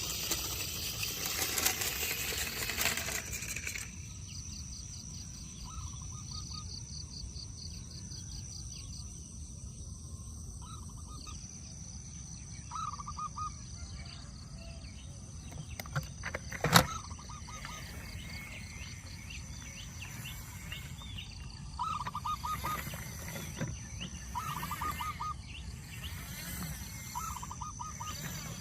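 Outdoor ambience: short chirping trills repeat every few seconds over a steady low background, after a rushing noise in the first few seconds. There is one sharp click about seventeen seconds in.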